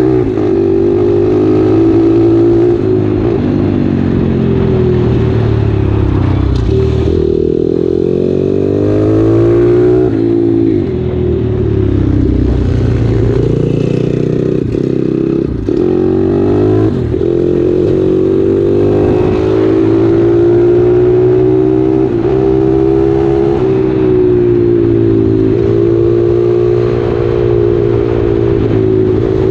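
A 140cc single-cylinder four-stroke pit bike engine running hard under way. Its pitch climbs with the throttle and falls back again and again, with a few brief dips where the throttle is rolled off.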